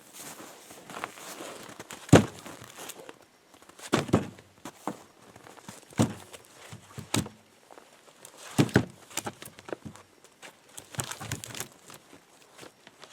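Split firewood thunking down piece by piece, several knocks a couple of seconds apart, the loudest about two seconds in. Crunching footsteps fill the gaps between the knocks.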